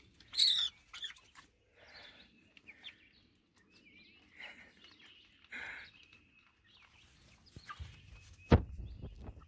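Four-week-old Cornish cross broiler chicks peeping and chirping in scattered short calls. A single sharp knock comes near the end and is the loudest sound.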